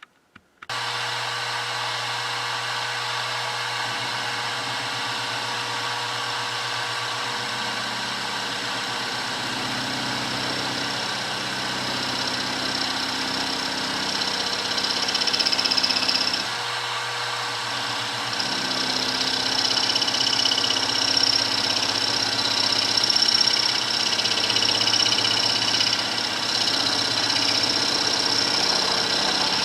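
Milling machine motor starting up and running steadily, then an end mill cutting counterbores into the metal part, adding a high cutting whine from about eight seconds in that breaks off briefly around the middle and then returns louder.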